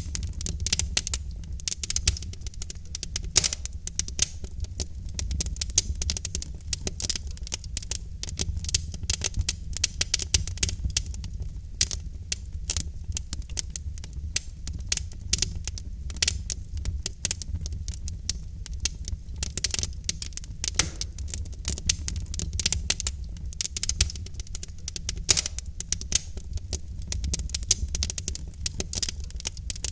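Logs burning in a fireplace, crackling with many irregular sharp pops and snaps over a low steady rumble.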